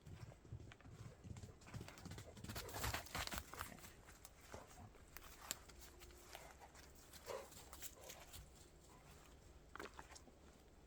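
Footsteps crunching in fresh snow, a run of steps loudest about two to four seconds in, then scattered softer crunches and small clicks.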